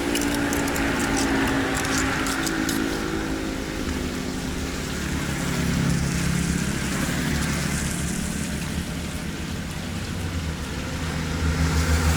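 An engine running steadily, with a few sharp clicks in the first seconds.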